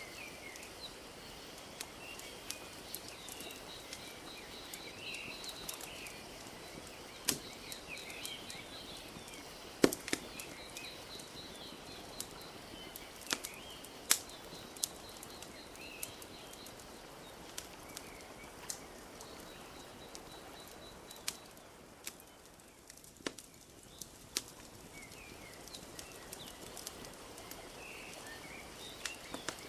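Wood fire crackling, with scattered sharp pops that are loudest about ten and fourteen seconds in, over a steady hiss of small lake waves lapping. Birds chirp throughout, and a fast high trill repeats until about twenty seconds in.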